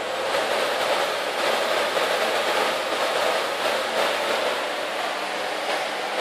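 Bosch Roxx'x vacuum cleaner running steadily: an even, loud rush of motor and air.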